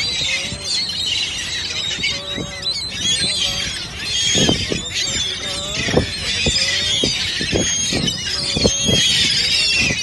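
A flock of small birds chirping and squeaking at a feeding spot, with many high calls overlapping. Through the middle comes a run of short, dull knocks.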